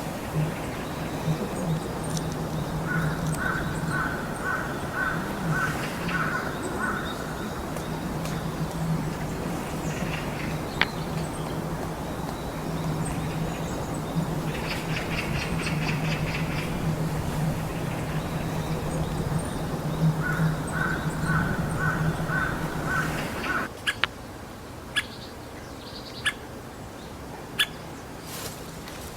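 Bird calls: two runs of short, evenly repeated notes, about four a second, plus scattered other calls, over a steady low hum that cuts off near the end. A few sharp clicks follow after the hum stops.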